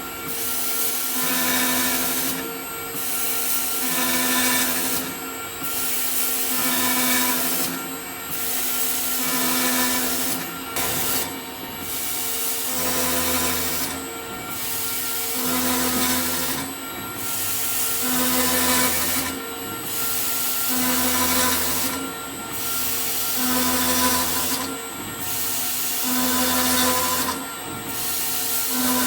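CNC drilling and milling centre machining an aluminium window profile. It works through a repeating cycle about every two and a half seconds: a steady spindle tone, a brief drop in the hiss, then the next hole.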